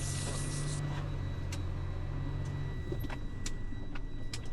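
Semi truck's diesel engine and road noise heard inside the cab while driving, a steady low drone that eases off about three seconds in. A few light clicks sound here and there.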